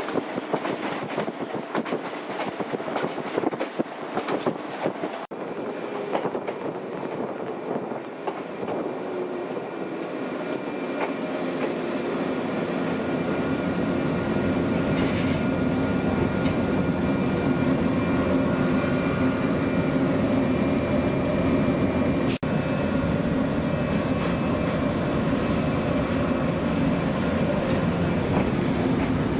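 Former JNR-type electric train running on the rails, with clicking over the rail joints; it gets louder about a third of the way in as a hum rises in pitch, then runs steadily, with one sharp click near two-thirds of the way through.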